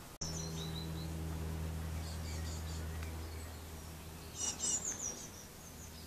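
Birds chirping and tweeting in short high calls: a few brief calls in the first half and a louder run of chirps near the end, over a steady low hum.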